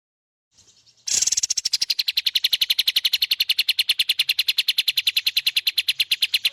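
A songbird giving a loud, fast, machine-even rattling trill of about a dozen high notes a second, starting abruptly about a second in after silence.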